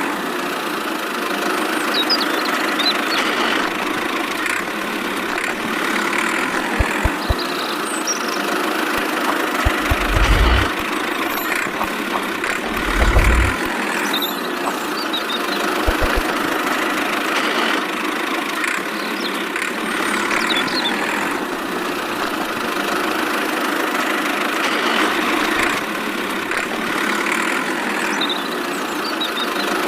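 Tractor engine idling steadily, with a couple of brief low thumps about ten and thirteen seconds in.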